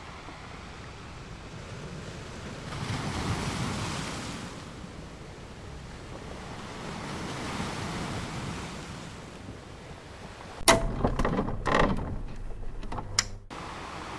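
Wind blowing across a phone microphone, swelling in two gusts, then a few seconds of harsh crackling buffets near the end that stop abruptly.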